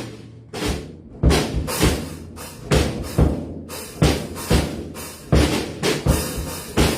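Drum kit being played, bass drum and snare hits coming about twice a second in a steady beat, each hit ringing on.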